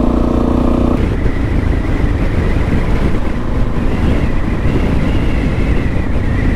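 Suzuki DRZ400S single-cylinder four-stroke motorcycle on the move. The engine note is clear for about a second, then drops away abruptly as the throttle is closed. It coasts on with steady wind rush and road noise and a faint high whine.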